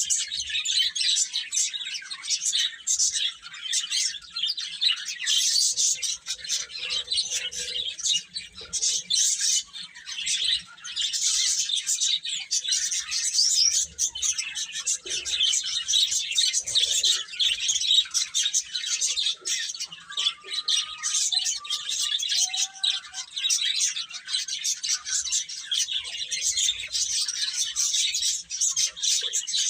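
A group of baby chickens (chicks) peeping, many short high-pitched cheeps overlapping without a break. A few lower, longer whistled notes stand out in the second half.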